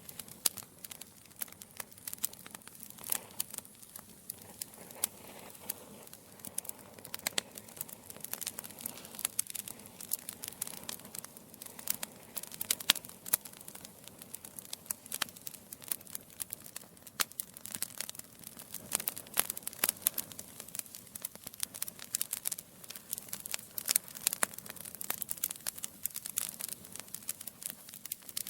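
Wood fire of burning logs in a fireplace, crackling steadily with many sharp irregular pops and snaps over a soft hiss.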